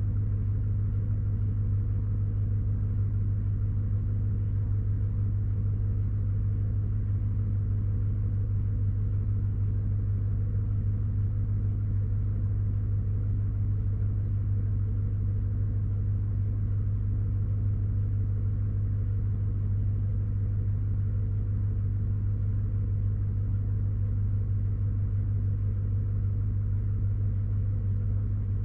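Chevy Silverado's V8 engine idling steadily after a cold start, warming up: an even low hum that does not change.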